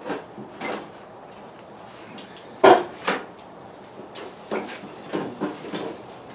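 Irregular metal knocks and clunks of a two-stage snow blower's housing and parts being handled as the machine is closed up around a new auger belt, the loudest clunk about two and a half seconds in.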